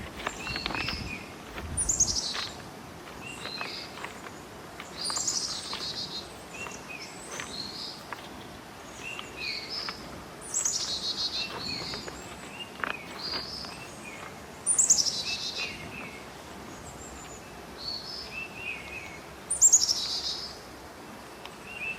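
Birds singing: one bird repeats a loud, high, fast trilled phrase that falls in pitch, about every four to five seconds, while other birds give shorter chirps in between.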